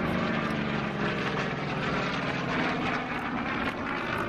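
Pratt & Whitney R-2800 Double Wasp radial engine of a piston warbird fighter running steadily in flight, a continuous engine drone.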